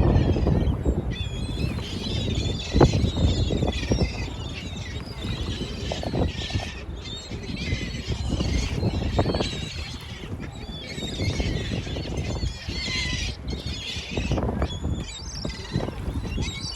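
A flock of birds chirping and calling together, many short high chirps overlapping, over a low rumble, with a single knock about three seconds in.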